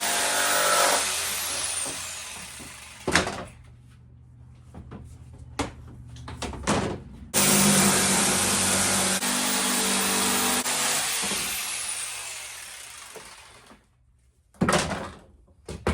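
Power saw cutting a piece of wood in two runs. The saw stops about three seconds in, starts again abruptly about seven seconds in, and then winds down gradually. Sharp knocks of wood being handled come in the gap between the runs and near the end.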